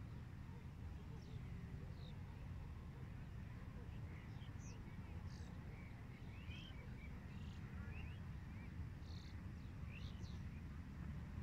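Birds calling with short, high chirps, scattered and busiest through the middle, over a steady low rumble.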